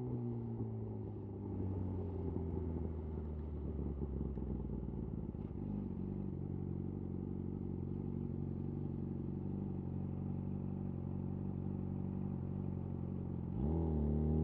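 Yamaha YZF R6 inline-four through a de-catted Akrapovic slip-on exhaust, revs falling away at the start and settling into a steady low idle. Near the end the engine revs up sharply.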